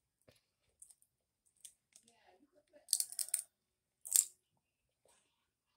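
Close-up eating sounds of a boy chewing: soft wet mouth clicks, a cluster of louder lip smacks about three seconds in, and one sharp smack at his fingers about a second later.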